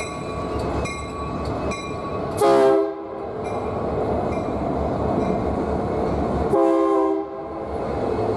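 BNSF freight locomotive sounding two short horn blasts about four seconds apart over the steady rumble of the passing train, with a grade-crossing bell ringing at the start.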